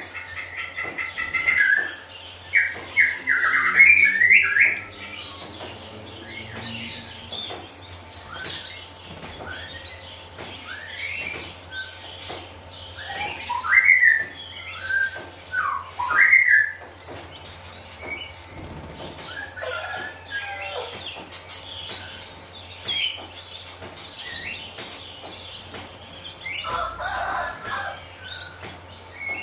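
Oriental magpie-robins (kacer) chirping and whistling in short, varied calls, with rapid trilled phrases in the first few seconds. A faint steady low hum runs underneath.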